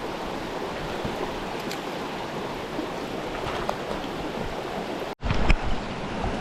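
Clear mountain stream water running steadily. It cuts out for an instant about five seconds in, then a few low bumps follow.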